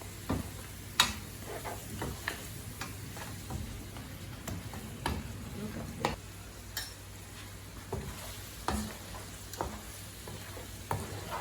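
A utensil stirring pork ribs in a pan of braising sauce, knocking and scraping against the pan at irregular intervals, about once a second, over a steady low sizzle.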